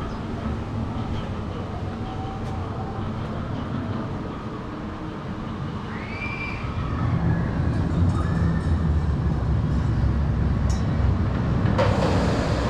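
Mine train roller coaster running on its track: a steady rumble of the train and its wheels that grows louder about seven seconds in, with a short burst of noise near the end.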